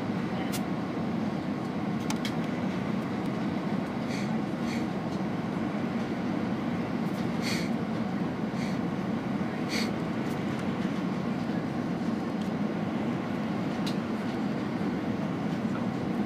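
Airbus A320 landing, heard as a steady, even rumble, with a few faint short ticks over it.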